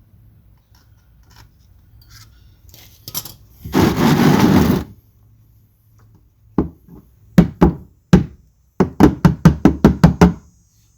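A rough rattling noise lasting about a second, then a series of sharp knocks close to the microphone: a few spaced ones, then a quick run of about five a second near the end.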